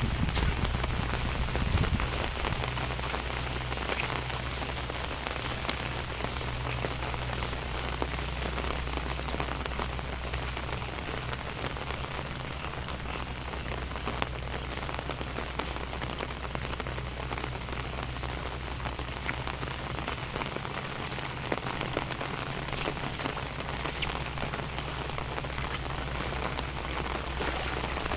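Steady rain falling on surfaces, a dense even patter with individual drops clicking through it, over a steady low hum.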